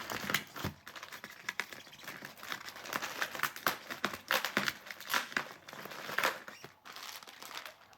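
Packaging crinkling and rustling in the hands, with many small irregular clicks and taps, as small detail parts are unpacked from a box.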